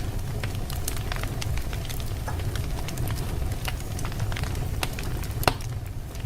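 Wood fire burning in a fireplace with a steady low rumble and frequent irregular crackles and pops, the loudest pop about five and a half seconds in.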